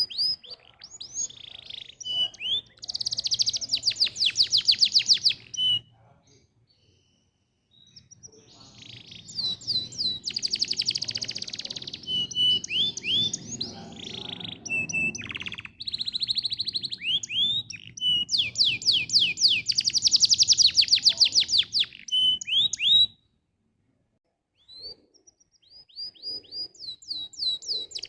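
Domestic canary singing: fast trills and rolls of rapidly repeated high notes mixed with short single chirps. The song stops twice for about two seconds.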